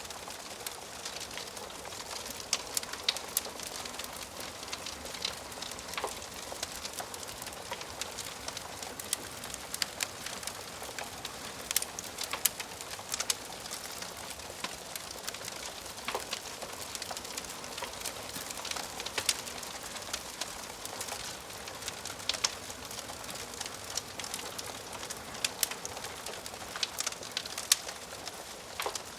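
Wood fire crackling in a fireplace: a steady soft hiss with frequent sharp, irregular pops and snaps from the burning wood.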